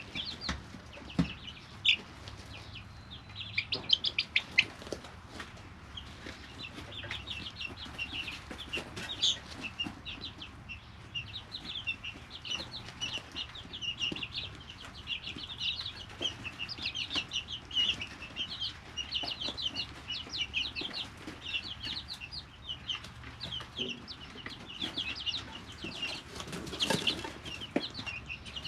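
A brooder full of three-week-old chicks peeping continuously, many short high calls overlapping. A few sharp taps sound in the first few seconds.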